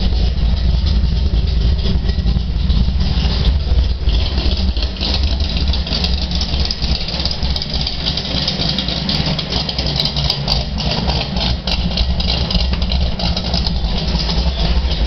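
Shelby GT500E Super Snake's V8 idling steadily with a low rumble.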